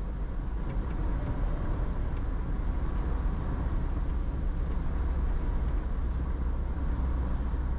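Steady low rumble of road and engine noise heard from inside a vehicle's cabin while driving.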